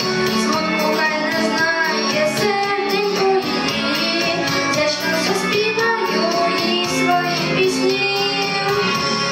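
A song with a sung melody over instrumental accompaniment.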